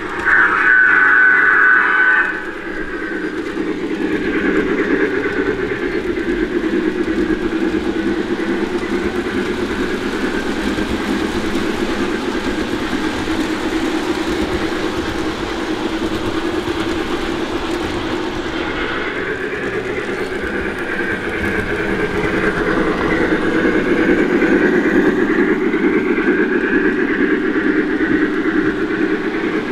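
O gauge model steam locomotive running on its track, a steady running noise of motor and wheels. A higher, steady tone sounds for about the first two seconds and then stops.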